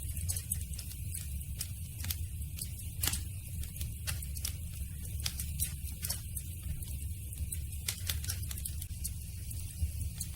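Campfire crackling: burning wood giving irregular sharp pops and snaps, several a second, over a steady low rumble of the flames.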